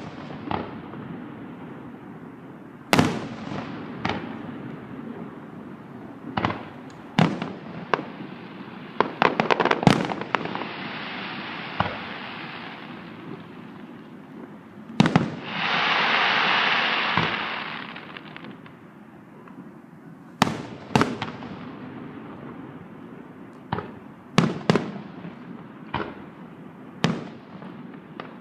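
Aerial fireworks display heard from a distance: shells bursting one after another with sharp bangs, a quick run of pops about a third of the way in, and two spells of continuous crackling hiss, the louder just past the middle.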